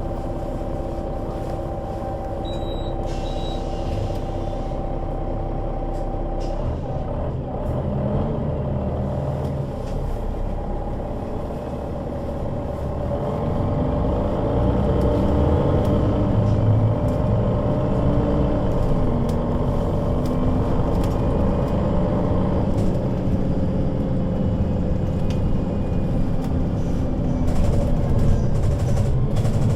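Solaris Urbino 12 III city bus with a Voith automatic gearbox, idling steadily, then about seven seconds in the engine note changes as the bus pulls away. The engine rises in pitch and dips back several times as the gearbox shifts up, growing louder as the bus accelerates.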